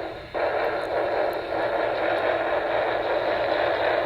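The onboard sound speaker of an HO scale Norfolk and Western Y6B model steam locomotive playing a steady steam hiss, with a short break just after the start.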